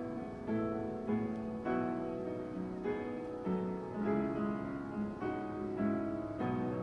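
Solo piano music: chords and melody notes struck at an even, unhurried pace, each left to ring.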